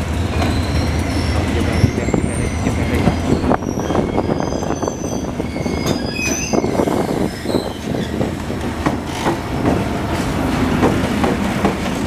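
VNR D19E diesel-electric locomotive hauling a passenger train slowly past at close range. A low engine rumble is strongest for the first three or four seconds, the wheels squeal in many short high-pitched whines, and the wheels knock over rail joints, more often in the second half.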